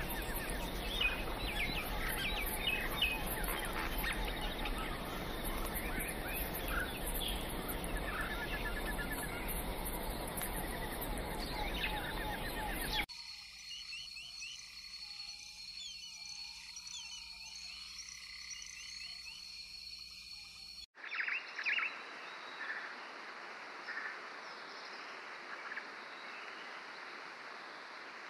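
Forest ambience: small birds chirping in short, quick calls over a steady background noise. The soundscape changes abruptly twice, about halfway through and again about three quarters of the way in, where different nature recordings are spliced together.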